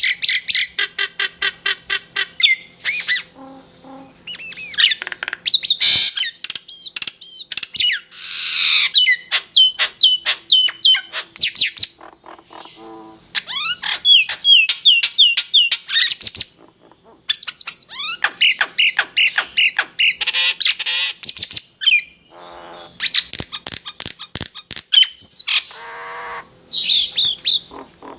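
Songbirds singing in loud, rapid phrases: fast runs of sharp repeated notes, strings of hooked whistled notes, and harsh chattering squawks, with short pauses between phrases.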